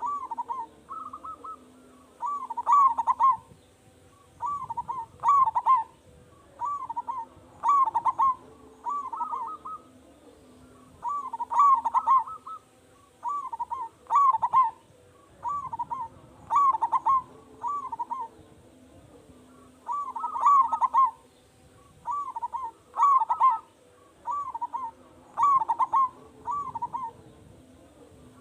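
Zebra dove (perkutut) singing loudly, repeating its cooing phrase over and over: quick runs of rolling coo notes, one phrase every second or two, with short pauses between them.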